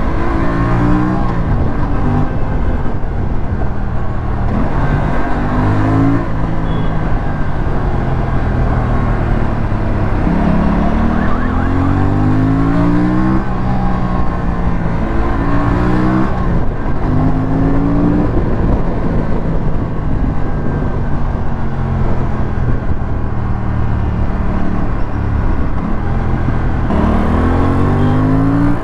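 Aprilia RS457's parallel-twin engine and exhaust pulling through the gears while riding: the pitch climbs and drops back at each shift, several times over. A steady rush of riding noise runs underneath.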